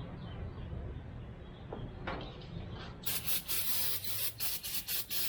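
Aerosol brake cleaner sprayed in a series of short hissing bursts, starting about three seconds in, onto a steering-column shift-linkage part to clean it.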